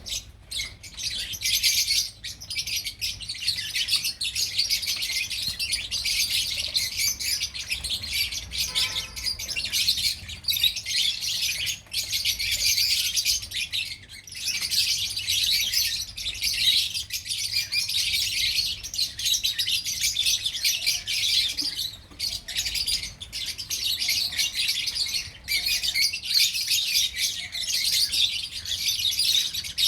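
Lovebirds chirping and chattering continuously in rapid, high-pitched calls, with a few short pauses.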